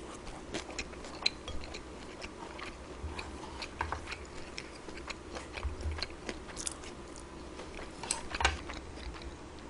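A person chewing and eating close to the microphone, with many short, scattered small clicks.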